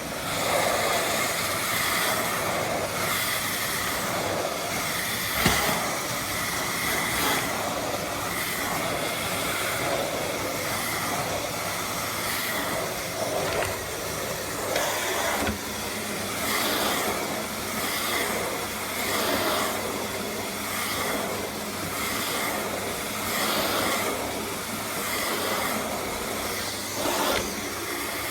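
Duronic VC8 stick vacuum cleaner running, a steady whooshing hiss of motor and airflow that swells and dips as it works. A single sharp knock sounds about five seconds in.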